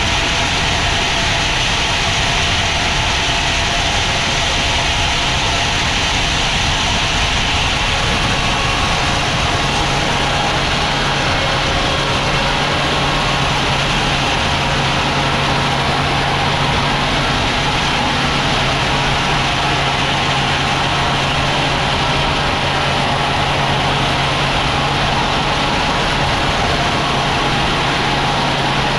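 Sawmill machinery running steadily: a continuous engine-like drone. A low steady hum joins about ten seconds in.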